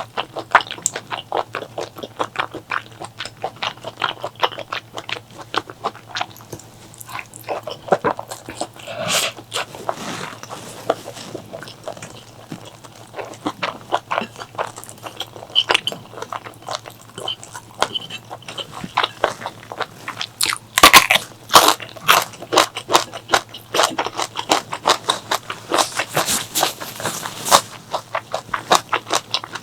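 Close-miked eating sounds: a person chewing and biting, with a constant run of irregular wet smacks and crunches. The loudest cluster of bites comes about two-thirds of the way through.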